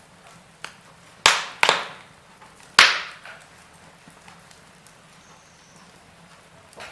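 Wood fire crackling: three loud, sharp pops between about one and three seconds in, with a few smaller ticks around them over a faint steady hiss.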